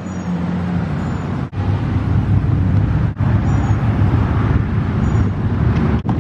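A motor vehicle's engine running steadily with a low rumble, cutting out very briefly three times.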